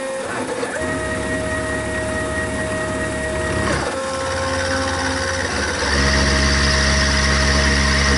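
Milling machine cutting cast iron with a 1/4-inch ball end mill, its motors whining at steady pitches over a low hum. The pitch shifts a few times as passes change, and the sound grows louder from about six seconds in.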